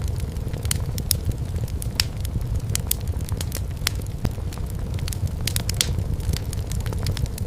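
Wood fire burning in a fireplace: frequent sharp, irregular crackles and pops over a steady low rumble of flames.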